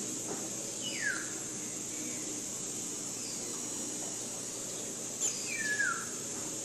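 Tropical forest ambience: a steady high insect drone, with a bird giving a falling whistled call about a second in and a run of falling whistles near the end.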